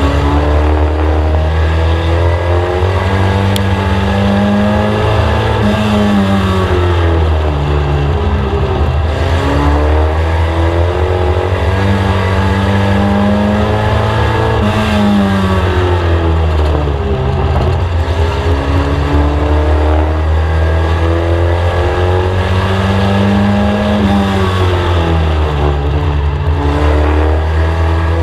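In-car sound of a Mk1 VW Scirocco's four-cylinder race engine lapping an oval. The engine climbs in pitch as it accelerates down the straights, then drops quickly as the driver lifts for the turns, over and over about every nine seconds.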